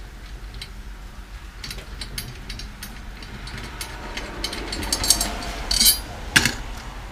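Metal drum hardware being taken off a tom: tension rods being unscrewed, with scattered clicks and clinks of rods and hoop parts. A louder knock comes near the end.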